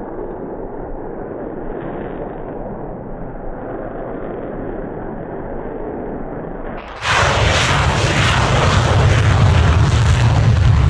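Engines running with a steady, muffled noise, then about seven seconds in a sudden jump to a much louder, full-power engine sound with a deep low band and crackle, as of a launch at full throttle.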